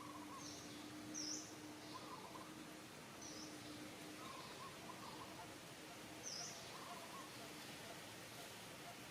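Faint outdoor background with scattered animal calls: short, sharp high chirps every second or few, and softer warbling calls lower in pitch in between.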